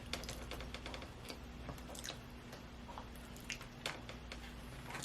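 Eating sounds: chewing and scattered sharp little clicks and smacks, a few louder ones near the end.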